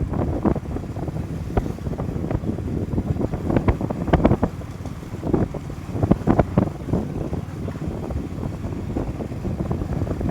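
Wind buffeting the microphone of a riding motorcycle, in irregular gusts over a steady low rumble of the bike and road.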